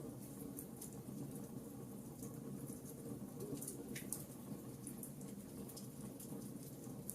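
Wood fire burning in a fireplace: a steady low rush of flame with small, irregular crackles and pops scattered through it.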